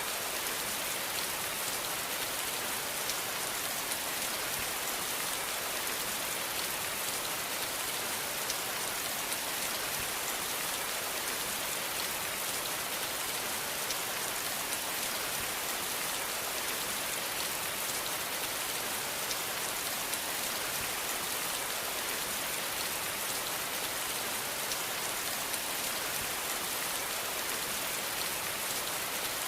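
Steady rain falling, a dense even hiss of drops with fine patter and no change throughout.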